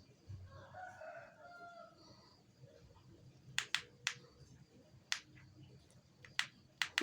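A rooster crowing faintly in the background for about two seconds at the start, followed by a handful of sharp, irregular clicks in the second half.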